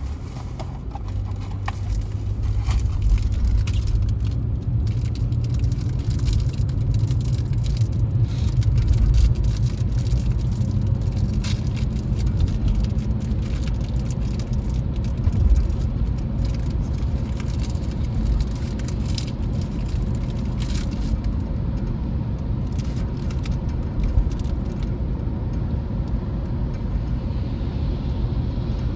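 Car driving: a steady low engine and road rumble, with scattered light clicks and rattles.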